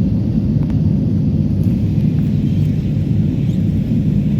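Steady low rumble of cabin noise inside an Airbus A320neo during its arrival: engine and airflow noise heard from an economy seat, even in level.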